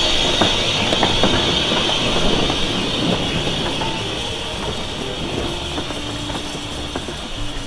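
Heritage train on the East Lancashire Railway: a steady hiss with scattered clicks and knocks, slowly fading away and dropping off near the end.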